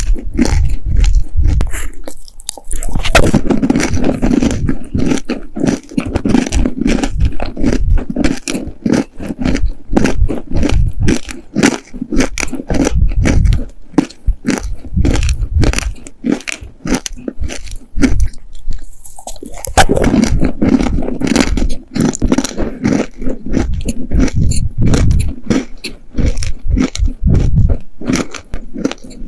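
Close-miked chewing of dry, sandy baked clay cookies: rapid crisp crunches throughout, with two spells of denser, louder grinding about three seconds in and again around twenty seconds in.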